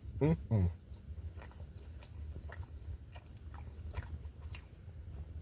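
A man chewing a bite of crispy BBQ chicken egg roll, with faint scattered crunches. Near the start are two short falling 'mm' hums of enjoyment.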